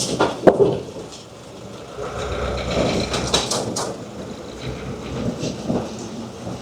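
Truck engine running, with a few sharp knocks in the first half-second.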